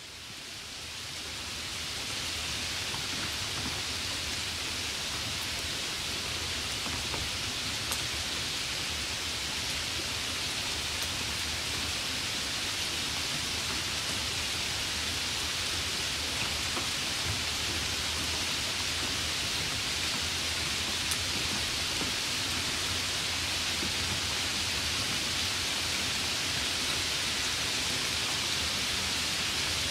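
Heavy thunderstorm rain falling steadily in an even, dense hiss, fading in over the first couple of seconds.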